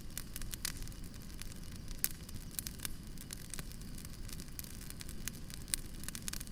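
Campfire crackling: irregular sharp pops and snaps over a low, steady rumble of the burning fire.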